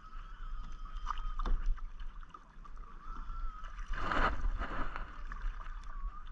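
Kayak paddling: paddle blades dipping and splashing in the water, with a couple of light knocks and a louder splash about four seconds in.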